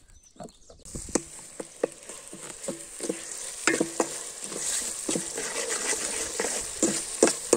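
Onions and tomato frying in oil in a metal pot, sizzling steadily while a spatula stirs and scrapes against the pot with repeated clicks and knocks. The sizzling begins about a second in. The onions are being sautéed until soft for a fish curry masala.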